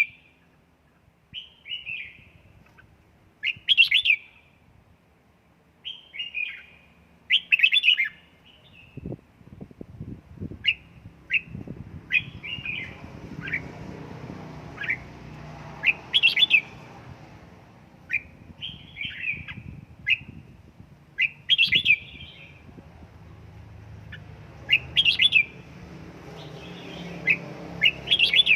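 Red-whiskered bulbul singing short, bright, warbling phrases over and over, one every second or two.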